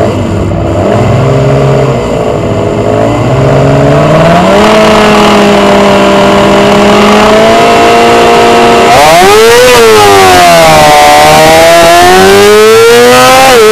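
Racing motorcycle engine on the start grid: the revs climb over the first few seconds and are held high and steady. About nine seconds in it launches and accelerates hard, with the revs falling and climbing again as it pulls away and shifts up, and wind rushing over the microphone.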